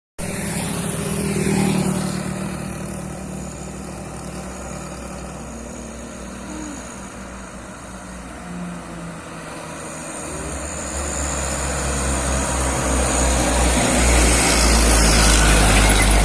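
Heavy truck's diesel engine running under load on a steep climb. It builds to a deep, loud rumble over the last few seconds.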